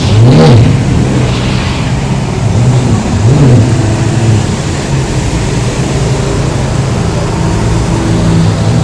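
Supercar engine idling loudly, blipped by the throttle in quick rev-and-drop bursts about half a second in and again around three seconds in, then settling back to a steady idle.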